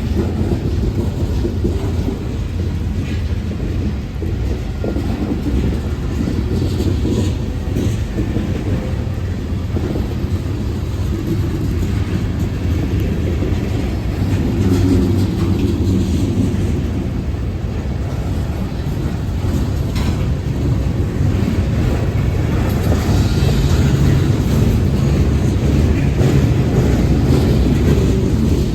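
CSX freight train rolling past, a steady low rumble of cars on the rails with a few sharp clicks and knocks.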